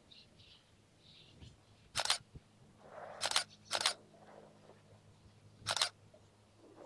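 Camera shutter sounds, four short clicks spread over a few seconds, from a phone taking pictures.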